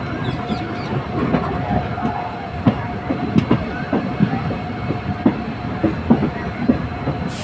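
Passenger train running along the track: a steady rumble with an uneven clickety-clack of wheels knocking over rail joints, about a dozen knocks.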